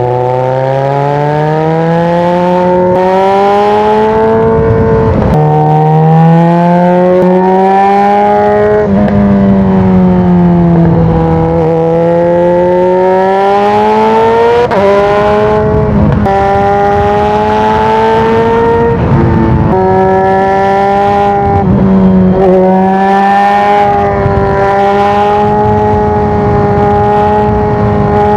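Yamaha XJ6's inline-four engine through an Arrow aftermarket exhaust, pulling through the gears: the engine note climbs in pitch, then drops at each upshift, several times over, with one stretch where it falls away and builds up again.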